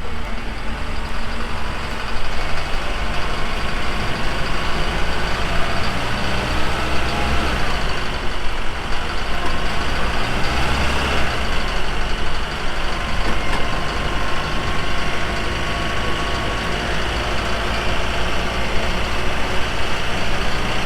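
Truck engines running under load during an off-road recovery pull, with a steady hiss over the engine note and the pitch rising and falling a little around the middle.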